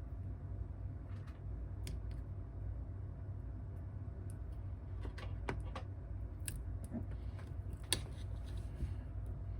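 Small tools and phone parts clicking and tapping as an iPhone is worked on, over a steady low hum. The clicks are scattered, with several close together in the second half.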